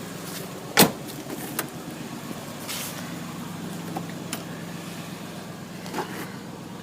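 1990 Cadillac's engine idling steadily at a low idle while it warms up after a cold start. A sharp click about a second in and a few fainter clicks later break over it.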